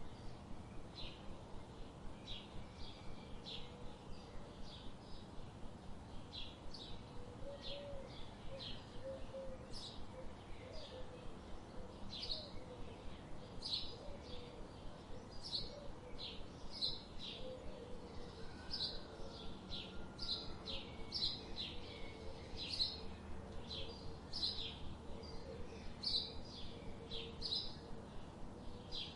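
Birds chirping: a steady stream of short, high chirps, a few each second, over a faint background hiss.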